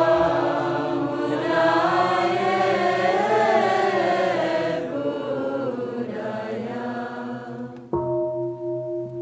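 Several voices chanting together in slow, gliding tones that fade out, then a bell struck once about eight seconds in, its deep tone ringing on with a slow wavering.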